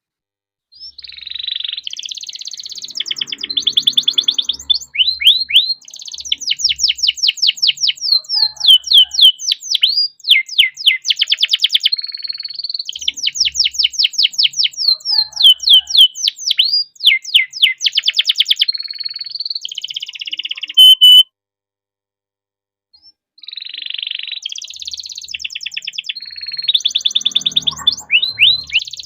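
Domestic canary singing a long song of fast rolls and trills: rapid runs of repeated falling high notes. It breaks off for about two seconds two-thirds of the way through, then starts up again.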